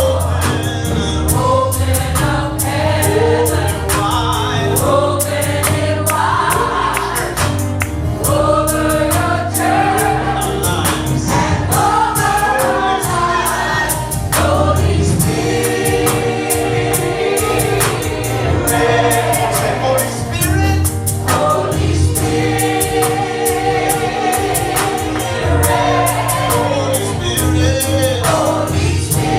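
Gospel choir singing worship music over a band, with a bass line and cymbal ticks keeping a steady beat.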